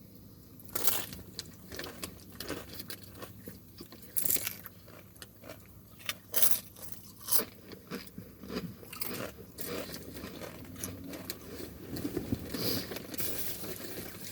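Close-up crunching and chewing of chips, sharp crisp crunches coming irregularly every second or two, with softer chewing between.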